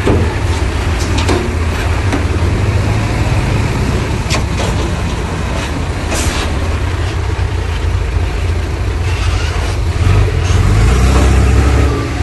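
Heavy earthmoving machinery's diesel engine running with a low rumble, working harder and louder for about two seconds near the end. A few short clanks and one brief hiss cut through it.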